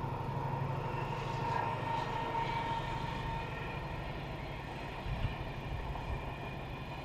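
A diesel-hauled freight train passing: a steady low engine drone with rail noise, and a faint whine that fades out about three seconds in.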